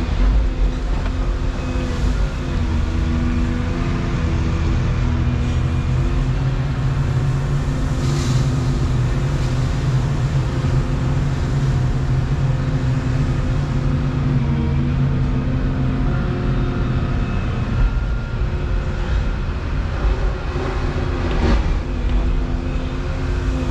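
Volvo 235EL excavator's diesel engine running steadily under working load, its pitch dipping now and then as the hydraulics take the strain, with a few brief knocks.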